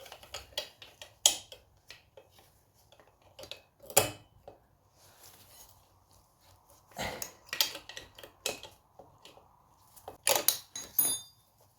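Flimsy belt cover being worked loose off its lugs on a moped engine: scattered light metallic clicks, knocks and rattles, busier about seven seconds in and again near the end.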